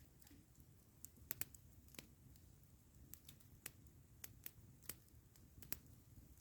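Campfire crackling faintly: sparse, irregular sharp pops and snaps from burning wood over a soft low rumble.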